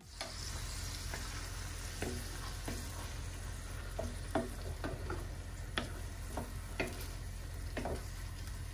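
Meatballs and onions frying in olive oil in a clay tagine, a steady sizzle, with a wooden spoon knocking and scraping against the earthenware as blended tomato is stirred in. The spoon strikes come irregularly, about ten of them from about two seconds in.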